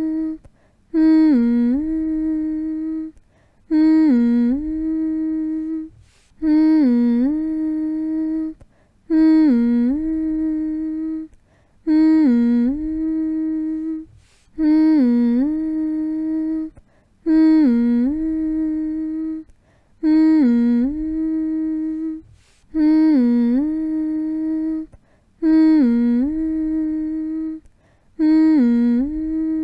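A person humming one note over and over: each hum dips briefly in pitch at its start, then holds steady for about two seconds before a short pause, repeating about every two and a half seconds.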